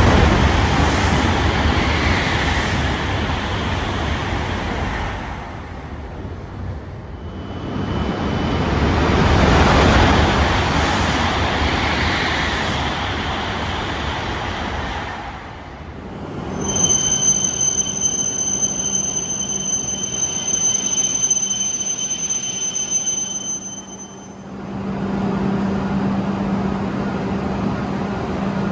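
Train passing on the rails: loud rumbling of the wheels and cars that comes in two surges. About halfway through, a steady high-pitched whine is held for several seconds, and it gives way to a low steady hum near the end.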